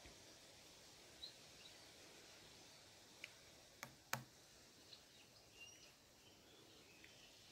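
Near silence with faint, scattered chirps of small birds. Two or three sharp clicks a little past halfway through are the loudest sounds.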